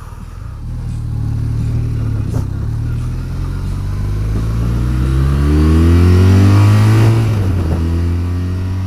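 Motorcycle engine pulling under acceleration. Its note climbs steadily for about seven seconds, then eases off and holds a steadier pitch near the end.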